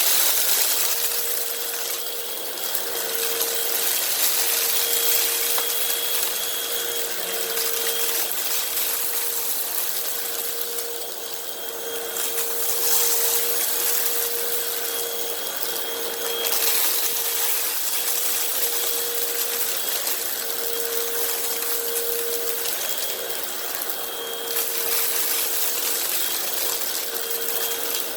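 Hoover WindTunnel upright vacuum running on a rug, with a steady motor whine under a rushing hiss of air and debris that swells and eases every few seconds as it is pushed back and forth.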